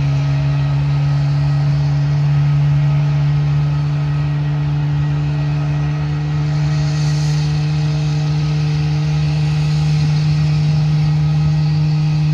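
A loud, steady engine drone: a constant low hum with its overtones, edging up slightly in pitch toward the end.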